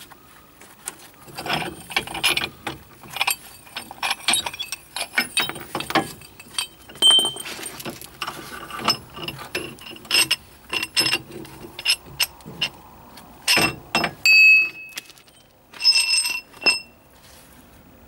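Steel tools and parts of a wheel bearing extractor set being worked and handled: an irregular string of metallic clanks, clicks and scrapes, with two ringing clinks of metal pieces near the end.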